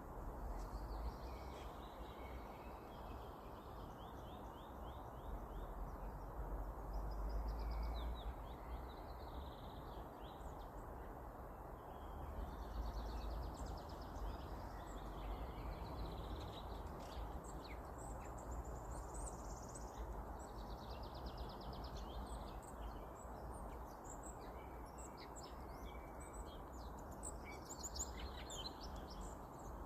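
Several songbirds singing and calling in a forest: overlapping trills, rapid repeated notes and short chirps, over a steady low rumble and a hiss of background noise.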